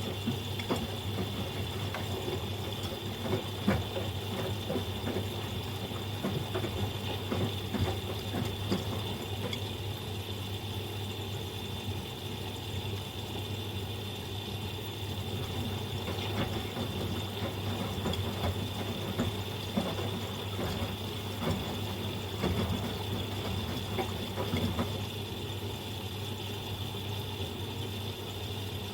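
Miele Professional PW 6065 Vario washing machine in its first rinse: the drum turns the load of stuffed toys through the rinse water, with irregular sloshing and splashing over a steady motor hum and a high whine. The sloshing stops about 25 seconds in as the drum rests.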